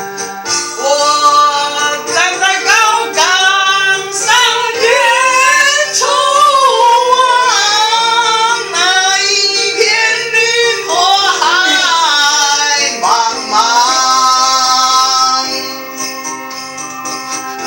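A woman singing a wavering, ornamented melody over instrumental backing music with a jingling tambourine-like shimmer. Near the end the voice stops and the accompaniment carries on, quieter.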